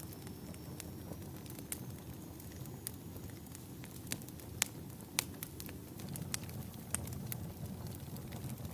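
Wood fire burning in a fireplace: a steady low rumble of the flames with irregular sharp crackles and pops from the logs, a couple of louder pops near the middle.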